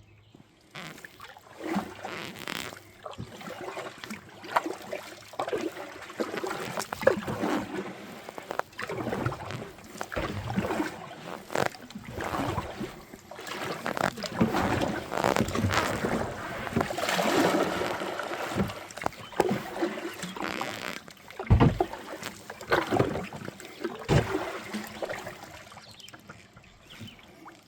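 Kayak on a river: irregular splashing and swishing of water, with scattered knocks and one heavier low knock about three quarters of the way in.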